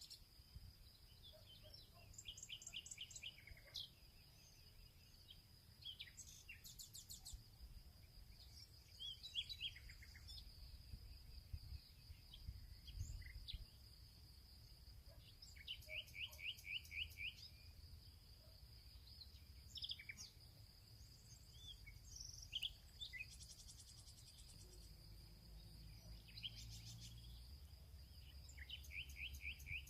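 Faint songbirds singing in a field: quick trills of rapidly repeated notes and scattered chirps recurring every few seconds, over a steady high-pitched tone and a low rumble.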